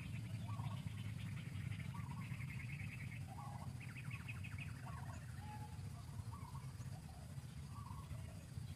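Birds chirping: short calls about once a second, with rapid buzzy trills a few times, over a steady low rumble.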